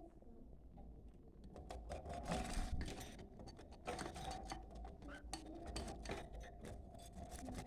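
Budgerigars chattering: a busy, fast run of clicks and short chirps.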